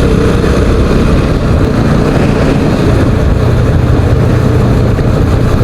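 Motorcycle under way: its engine running steadily with wind noise on the microphone.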